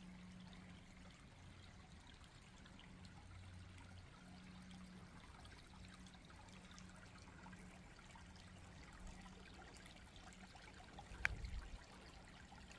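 Faint trickling water, close to silence, over a faint low hum, with one short knock near the end.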